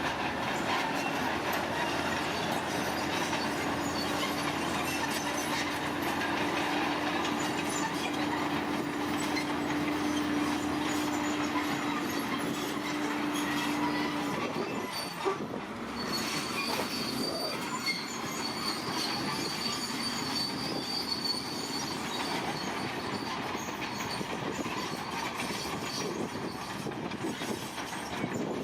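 Heavy earthmoving machinery running: a steady engine-and-track din with a held low tone for the first half. After a brief break about halfway, a thin high whine sits over it.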